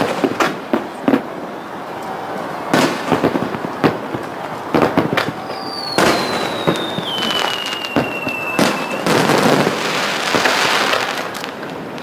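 Aerial fireworks display: repeated shell bursts going off with sharp bangs, a long whistle falling in pitch from about halfway through, then a dense crackling shower near the end.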